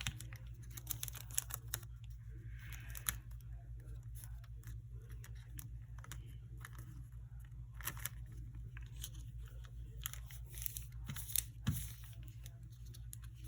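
Sticky tape being pulled and torn and a plastic fidget being handled: scattered short tearing, crinkling and clicking sounds, over a steady low electrical hum.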